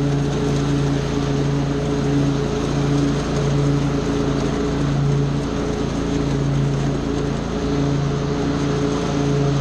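Small gasoline engine of lawn power equipment running steadily at working speed, its hum swelling and easing slightly about once a second.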